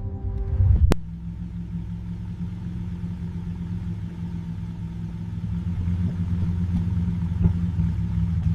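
A sharp crack about a second in, then a car engine running at a steady idle, growing a little louder near the end.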